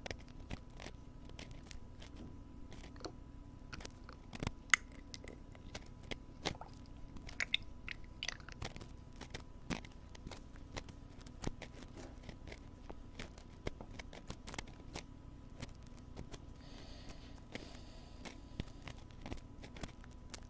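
Wooden ear pick scraping and tapping inside a binaural microphone's ear: irregular crackling clicks, a few sharper and louder, over a faint steady hum.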